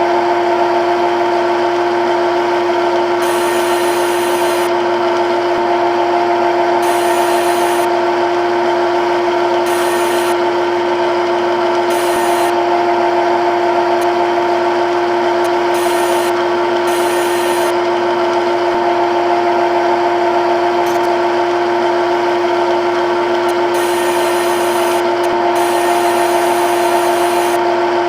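CNC lathe running with a steady, unchanging whine, with a high hiss that comes and goes every second or two.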